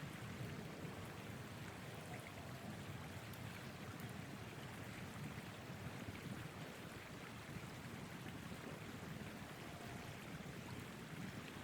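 Steady rushing wind of a winter blizzard.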